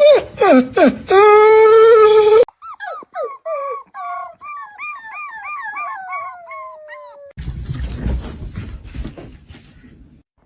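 A dog vocalising: loud howl-like notes sliding up and down in pitch, then a quick run of short high squeaky whines ending in a long falling whine. Near the end comes a couple of seconds of noisy rustling.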